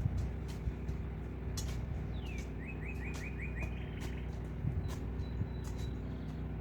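A songbird calls once: a short falling note, then a quick run of about six chirps. Under it is the steady hum of an idling engine, with a few light knocks.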